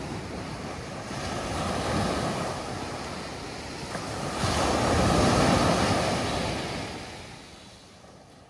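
Ocean surf breaking and washing up a beach, swelling twice, about two and five seconds in, then fading away near the end.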